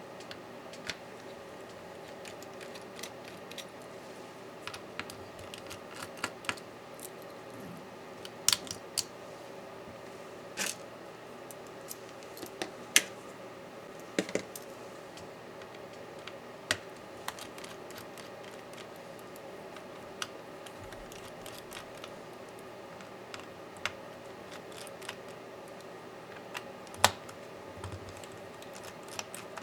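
Scattered small clicks and taps of hand tools and small parts being handled during disassembly of a 16-inch MacBook Pro, a few sharper clicks standing out, over a steady faint hum.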